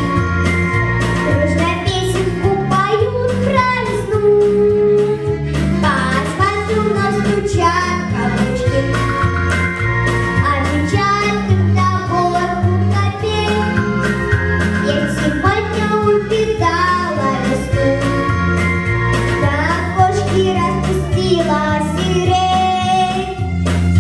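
A young singer's voice carrying a melody over a backing track, with a repeating bass line and a steady drum beat.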